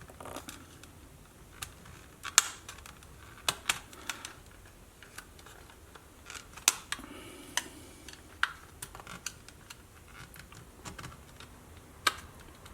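Plastic case of a Sony WM-B18 Walkman being pried open: scattered sharp plastic clicks and snaps as its snap-fit clips let go, the loudest about two seconds in.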